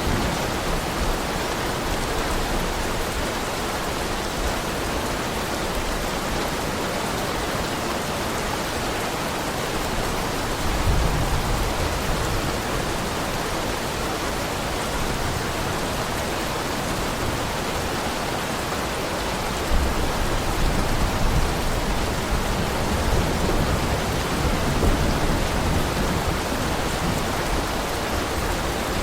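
Heavy rain falling steadily in a dense, even hiss. A deeper low rumble swells in about a third of the way through, and again for most of the last third.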